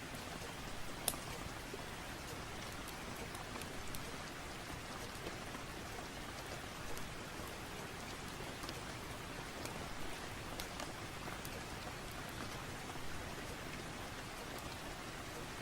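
Steady rain with a few sharp crackles and pops from a wood fire scattered through it.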